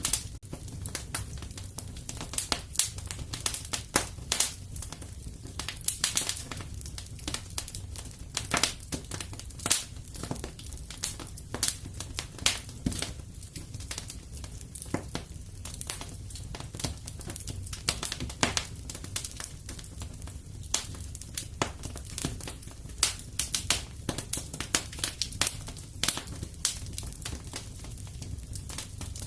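Wood fire crackling and popping in a fireplace: irregular sharp snaps, several a second, over a low steady rumble of the flames.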